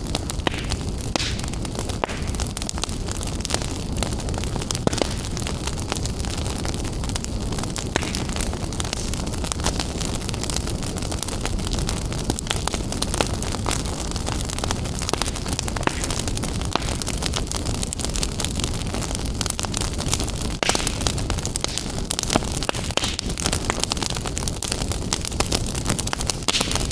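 Fire in a fireplace crackling, with frequent small snaps and pops over a steady low rush of burning.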